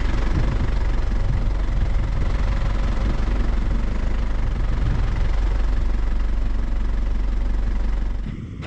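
A steady engine-like rumble running evenly, which cuts off abruptly near the end.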